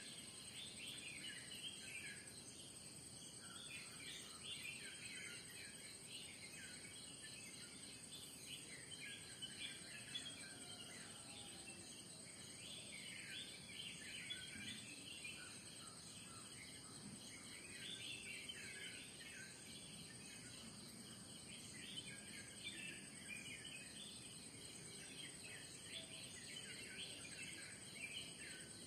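Faint morning chorus of birds chirping and twittering in overlapping bursts, over a steady, high-pitched insect drone.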